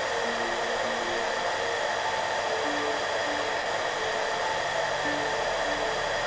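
Hairdryer running steadily: an even rush of blown air with the motor's steady whine in it. Soft background music plays quiet, short notes underneath.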